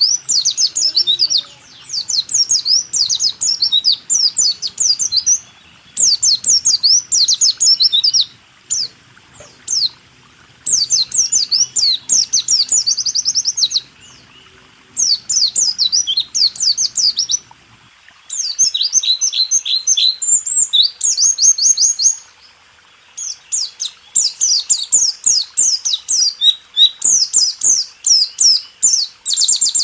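White-eye (pleci) singing a fast rolling song: high notes in quick runs, phrases of two to four seconds with short pauses between them.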